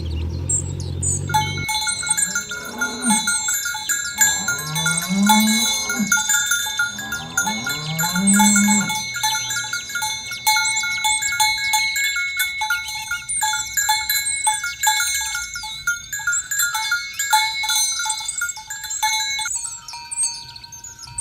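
Cattle mooing: three long moos that rise in pitch come in the first half. Throughout there is steady ringing and tinkling like bells, with bird chirps.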